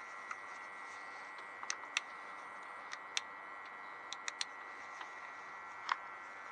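Scattered light clicks and taps, about ten of them at irregular intervals, over a steady background hiss: small objects being picked up and handled.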